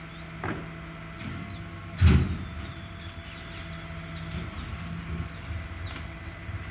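Garbage truck running, with one loud bang about two seconds in and a smaller knock just before it.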